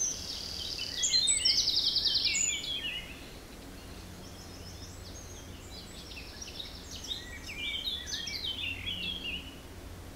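Songbirds chirping in quick runs of high, falling notes, loudest in the first three seconds, then softer calls later on.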